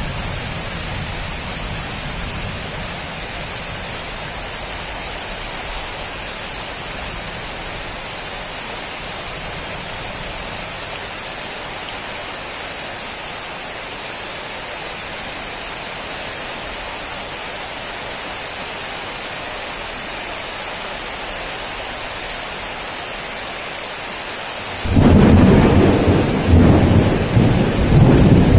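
Heavy rain falling steadily on trees and foliage, an even hiss. Near the end a sudden loud, deep rumble of thunder breaks in and goes on rolling.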